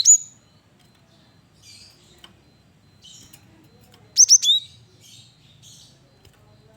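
Cinereous tit (gelatik batu) calling: a short burst of loud, sharp, high whistled chirps right at the start and another about four seconds in, with fainter twittering in between.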